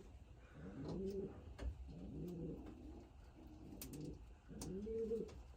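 Racing pigeon cocks cooing in their loft: a steady string of low, arching coos, about one a second, with a few faint clicks between them.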